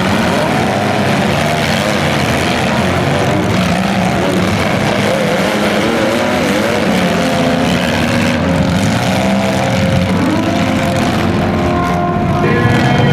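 Several compact-car engines running and revving at once in a demolition derby: a dense, steady mechanical din with pitches wavering up and down. Near the end a horn sounds.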